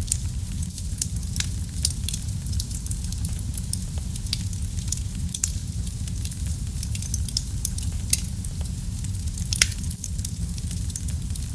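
Wood fire burning in a fireplace: a steady low rumble of flames with frequent sharp crackles and pops, two louder pops about eight and nine and a half seconds in.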